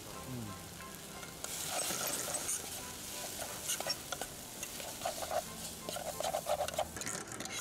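Chopped tomato and spices sizzling in a hot metal camp pot, stirred with a metal utensil that clinks and scrapes against the pot. The sizzling starts about a second and a half in, and the scraping comes thickest near the end.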